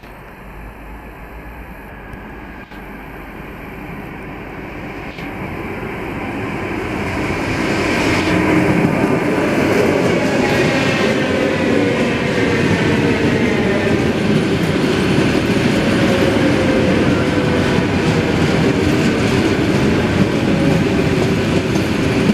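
Electric multiple-unit commuter train approaching and running past along the platform. It grows louder over the first eight seconds, then holds a steady rumble of wheels on rail with a motor whine that slowly falls in pitch.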